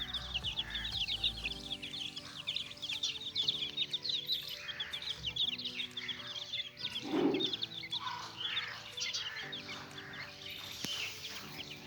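Young chicks peeping rapidly and continuously, densest in the first few seconds, over background music with long held notes.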